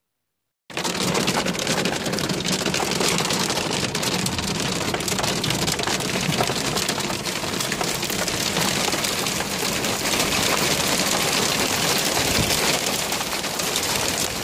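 Hard rain and hail coming down hard: a dense, steady clatter of countless small impacts. It starts after a brief dropout under a second in.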